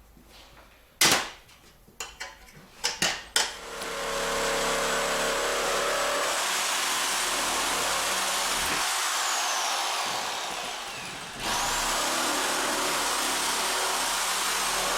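A few knocks, then a handheld power tool runs steadily for several seconds, winds down with a falling whine, and starts up again a second or so later with a rising whine before running on.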